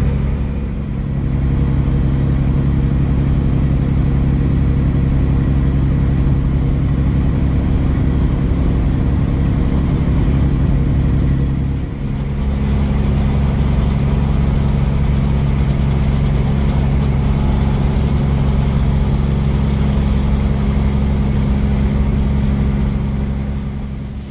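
Semi truck's diesel engine running steadily under way, with a steady low drone. About halfway through it dips briefly, as in a gear change, and then runs on at a higher pitch.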